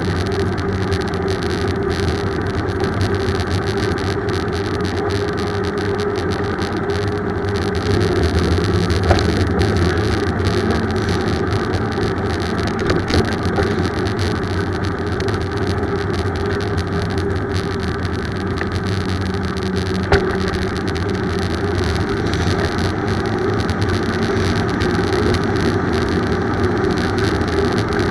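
Steady road rumble of a bicycle ride, with a couple of brief sharp clicks about nine and twenty seconds in.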